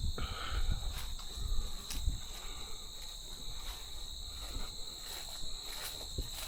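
Field insects such as crickets trilling steadily in one unbroken high-pitched chorus, with a few soft low thumps in the first couple of seconds.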